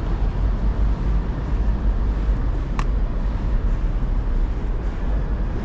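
Steady low rumble of city street ambience, typical of traffic, with a single sharp click about halfway through.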